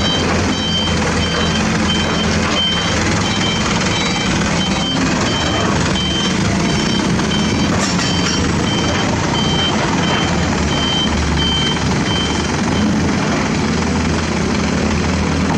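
Backup alarm on heavy construction equipment beeping steadily, about one and a half beeps a second, over the steady low drone of a diesel engine running.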